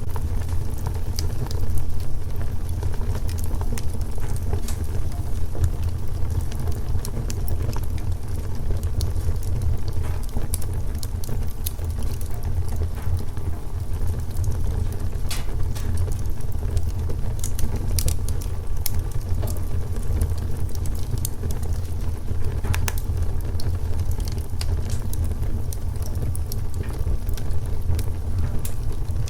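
Wood fire burning steadily with a low rumble and frequent sharp crackles and pops of burning logs.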